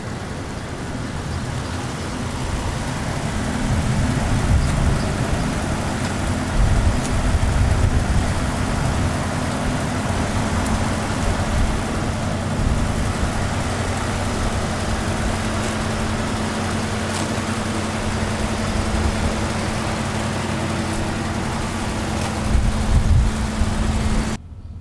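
Vintage car's engine running at idle: a steady low hum over a rumble that swells about four to eight seconds in and again near the end, then cuts off abruptly.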